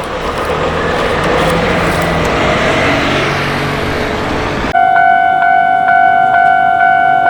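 An Iyo Railway electric train passing over a level crossing, a loud rushing rumble of wheels on rail. A little under five seconds in it gives way abruptly to a Japanese level-crossing bell ringing its electronic "kan-kan" tone at about two strikes a second.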